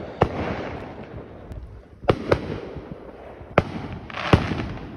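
Fireworks going off: about five sharp bangs, two of them in quick succession about two seconds in, each trailing off in a hissing, crackling tail.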